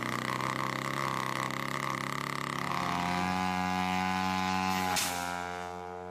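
Helicopter running with a steady droning hum. Its tone shifts about three seconds in, and a sharp click comes near the end.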